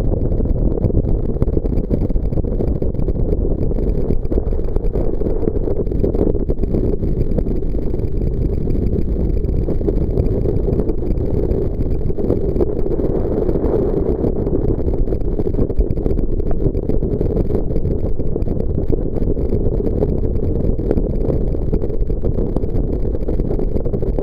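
Jet boat under way: a loud, steady rumble of engine and rushing water that holds an even pitch throughout.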